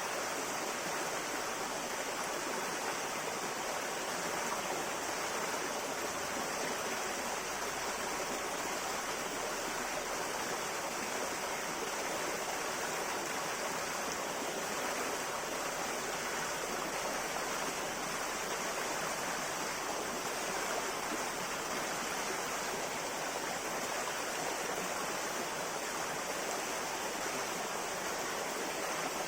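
River water flowing steadily over rocks, a continuous even rush with no breaks.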